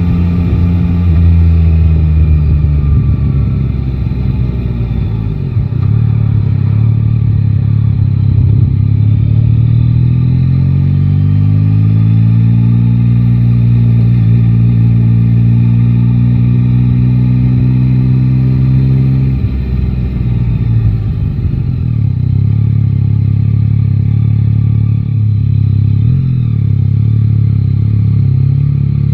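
Yamaha Tracer 9 GT's 890 cc inline three-cylinder engine heard from the rider's seat on a city ride. Its note falls as the bike slows at first, then rises as it pulls away about a third of the way in and holds steady. About two-thirds in the throttle is closed and the note drops to a lower, rougher running.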